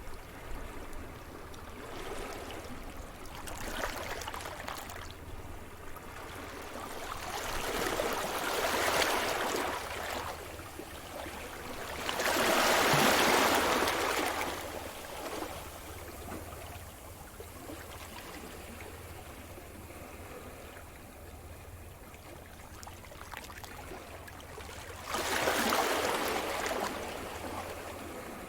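Sea surf: waves break and wash in, each a rising and falling rush of hiss. Four come in, the loudest about halfway through, with a steady low rumble underneath.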